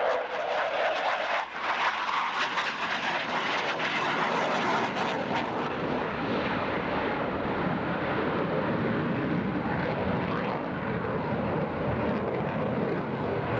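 Airplane engines running, a steady rushing noise with no clear tone and a falling pitch sweep in the first couple of seconds.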